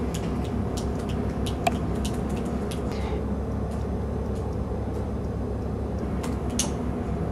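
Steady low rumble of background noise with scattered short clicks, the sharpest about a second and a half in and again near the end.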